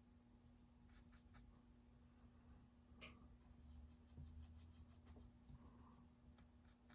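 Near silence: room tone with a steady low hum, faint scratchy rustles and a few light clicks, one sharper click about three seconds in.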